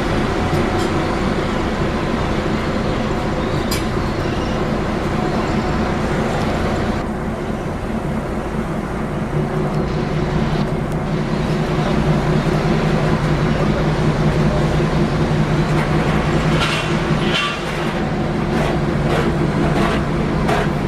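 Heavy machinery and diesel engines running steadily with a deep hum that grows stronger partway through, and a burst of sharp metallic clatter near the end, typical of a catch being unloaded and sorted.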